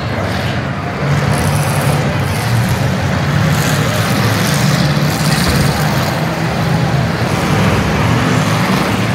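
Demolition derby cars' engines running together, a loud steady drone with no single sharp crash standing out.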